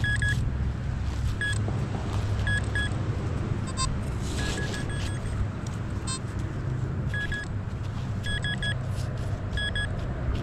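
Metal detector sounding short, high beeps in quick clusters of one to three, again and again as the coil is swept back and forth over a buried target. The target reads in the nickel range, which the detectorist is calling a nickel. A steady low rumble runs underneath.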